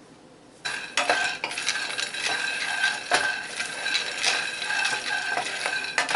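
Raw peanuts rattling and scraping in a hot dry skillet as they are stirred for dry roasting, a dense run of small clicks and ticks starting about half a second in.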